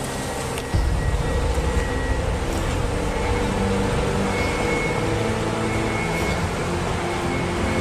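Steady low mechanical rumble that starts abruptly about a second in, under background music with held notes.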